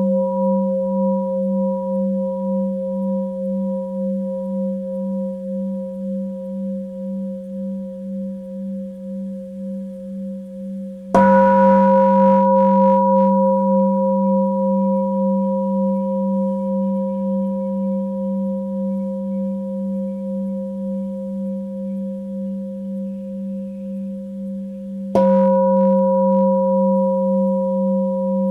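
Tibetan singing bowl struck twice, once about eleven seconds in and again near the end. Each strike rings on as a long, wavering tone that slowly fades.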